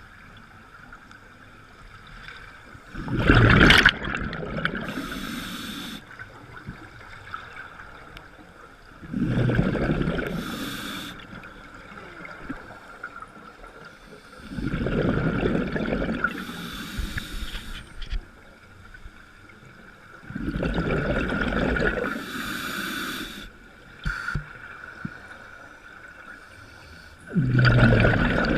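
A boat moving on water, with water surging and splashing against it in bursts about every six seconds, each lasting two to three seconds, over a steady high hum.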